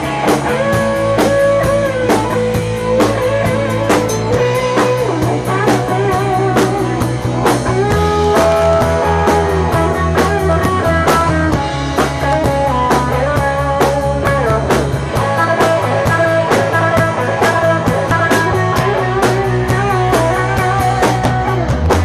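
Rock band playing an instrumental break: a lead guitar line with bends and vibrato over bass and a steady drum beat.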